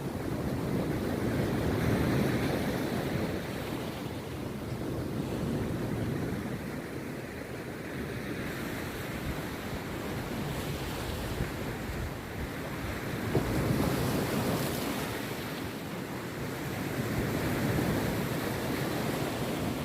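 Rough sea surf breaking on a beach: a continuous wash of waves that swells louder about two seconds in, again past the middle and once more near the end.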